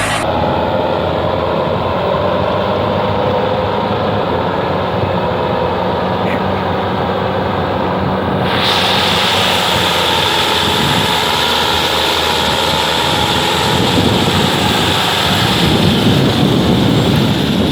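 Tractor engine running steadily, with the sound changing abruptly about eight and a half seconds in.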